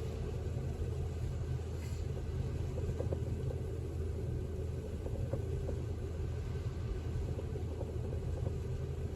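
Steady low road rumble inside a moving car: engine and tyre noise while driving.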